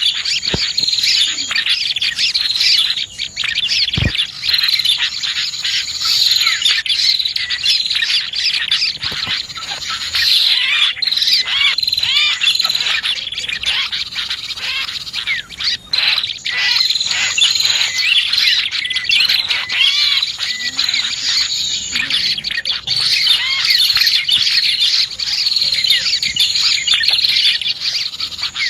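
Dense, continuous chorus of small birds chirping and trilling, prinias (prenjak) among them, a bird-lure recording. A high steady insect-like buzz comes and goes behind the birds, and two sharp clicks sound in the first few seconds.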